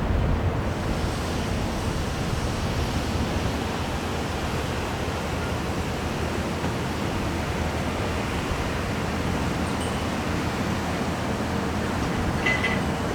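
Steady rushing noise of a passenger train going by at speed, mixed with wind on the microphone. A couple of brief high tones sound near the end.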